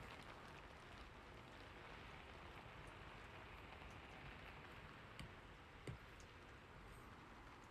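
Soft, steady rain, with two short clicks about five and six seconds in.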